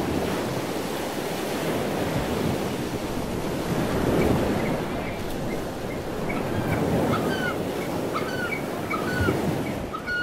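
Surf washing on a beach, with a series of short, high bird chirps repeating from about halfway through.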